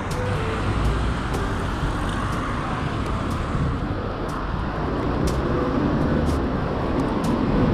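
Steady rumble of wind and road noise while riding a bicycle, with scattered light clicks.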